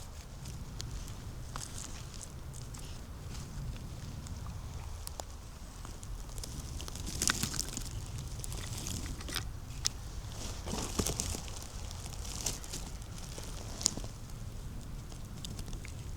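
Footsteps crunching over dry leaves and twigs on the forest floor, with irregular crackles and a few sharp snaps.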